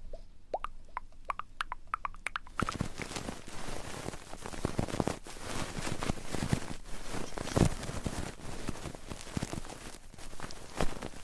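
ASMR ear-rubbing on a binaural microphone: a dense, crackling rustle of fingers or a tool scratching close on the mic. It starts about two and a half seconds in, after a quick run of short rising pops.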